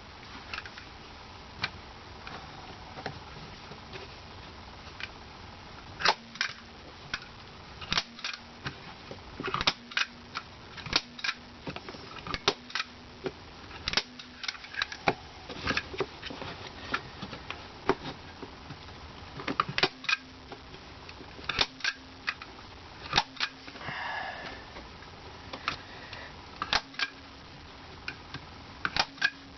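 Hand staple gun driving staples into foam insulation padding: sharp irregular snaps, often a second or two apart and sometimes in quick pairs. A brief scraping sound about two-thirds of the way through.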